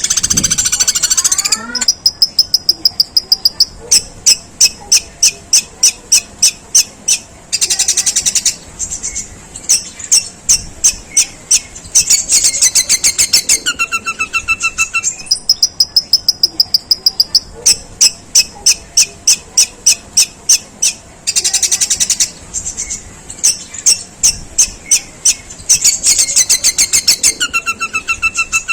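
Long-tailed shrike singing long, harsh strings of rapid sparrow-like chirps, about five a second, imitating Eurasian tree sparrow calls. The chirping is broken by several rasping bursts and short high trills.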